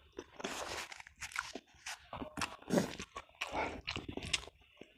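Close-miked chewing with the mouth open, eating rice with balado tofu, eggplant and eel: irregular wet smacks and crunches, several a second, with one louder smack near the middle.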